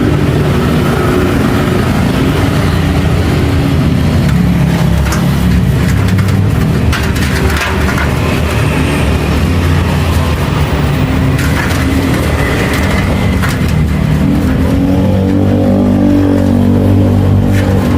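An engine running steadily with slight changes in pitch, with a few sharp clicks over it.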